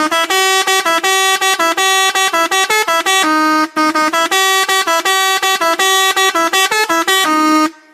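A short electronic tune of bright, buzzy beeping notes stepping quickly up and down, repeating in a loop: each phrase ends on a held note with a brief break about halfway through and again near the end.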